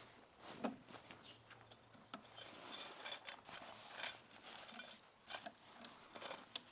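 Light metallic clinks and clicks from camp cookware and utensils being handled, several with a short ringing tone, most of them clustered in the middle.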